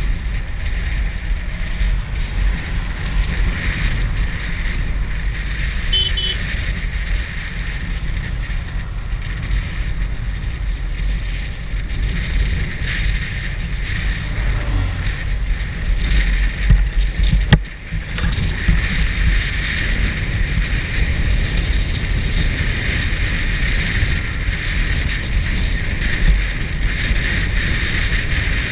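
Steady rush of wind buffeting the microphone on a moving bike, with heavy low rumble and road noise underneath. A single sharp click about seventeen seconds in, with a brief drop in the noise.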